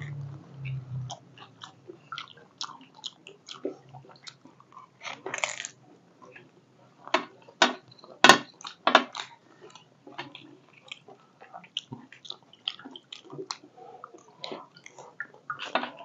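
Panipuri being bitten and chewed close to the microphone: a run of irregular crisp crunches and chewing, with the loudest crunches about halfway through.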